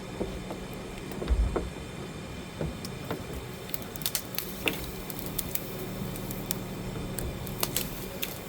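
Steady low motor hum with scattered clicks and knocks, and a dull thump about a second and a half in.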